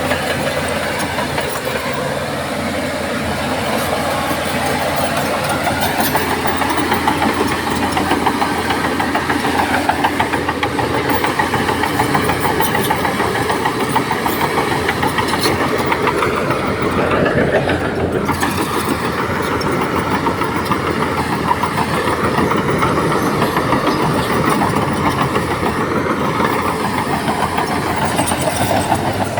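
Heavy diesel earthmoving machinery working under load with a steady, loud engine note; a little past halfway the engine briefly swells, then drops back.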